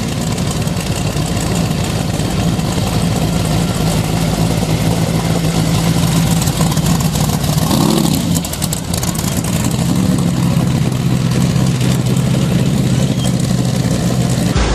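The 700-horsepower engine of a 1932 Ford hot rod pickup idling steadily. It is revved once, briefly, about eight seconds in, then settles back to a slower idle.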